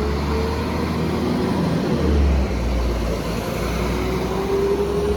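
Class 197 diesel multiple unit pulling away from a stop: a low engine rumble, loudest about two seconds in, with a whine that rises in pitch near the end as the train picks up speed.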